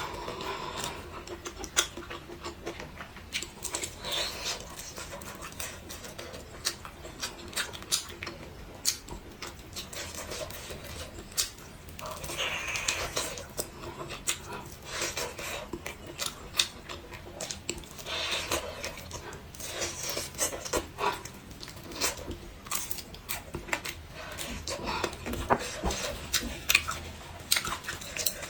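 A person eating close to the microphone: chewing and mouth smacking, with many short sharp clicks and a few louder noisy stretches.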